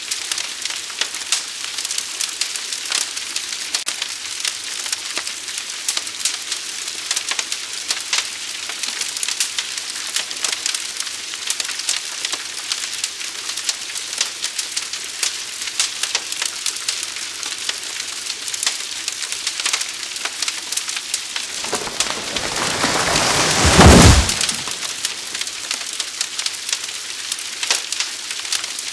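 Wildfire burning with dense, continuous crackling and popping over a steady hiss. Late on, a whoosh builds for about two seconds to the loudest moment and then dies away.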